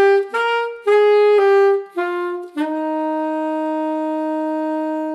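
Solo saxophone playing a smooth, legato melodic phrase: a handful of short notes, then one long held note from about halfway through.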